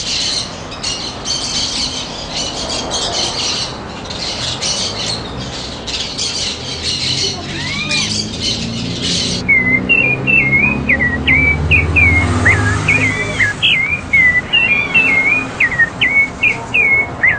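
Many small birds chirping and chattering together. About nine seconds in this gives way to one bird singing a loud whistled song in short, quickly repeated phrases, with a low hum underneath for a few seconds.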